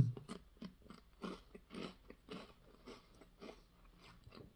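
A person chewing a mouthful of crisp potato chips with the mouth closed: soft crunches about twice a second.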